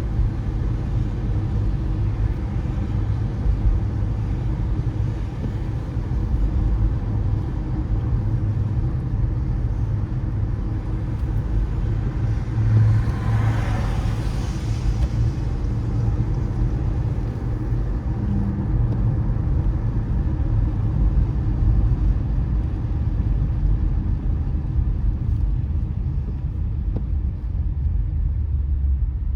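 A car driving on a wet road: a steady low rumble of engine and tyres under an even hiss of rain and spray. About halfway through, a louder hiss swells and fades.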